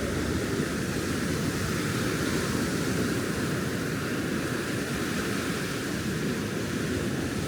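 Steady rushing surf of ocean waves on a sandy beach, with low wind rumble on the microphone.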